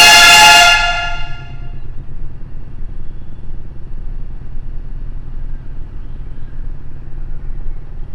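A train horn sounds once, loud and about a second long, and rings away over the next second. Then the train runs on with a steady low rumble.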